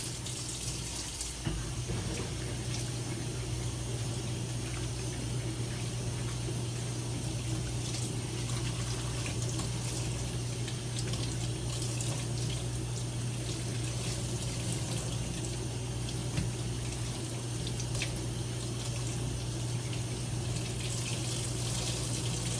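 Water running steadily from a tap into a sink, over a constant low hum, with a few faint clicks.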